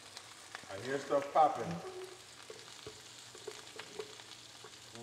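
Chopped onion, scallion, tomato, green pepper and thyme sizzling in hot coconut oil in a frying pan as they are scraped in and stirred with a spoon, with a brief voice about a second in.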